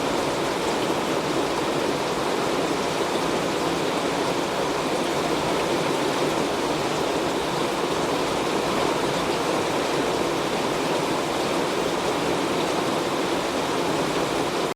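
Heavy rain on a metal roof, a steady dense rush with no breaks or thunderclaps.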